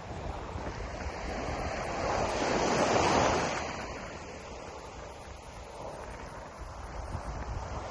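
Ocean surf washing ashore: one wave swells to its loudest about three seconds in and ebbs away, and the next begins to build near the end. Wind buffets the microphone with a low, uneven rumble.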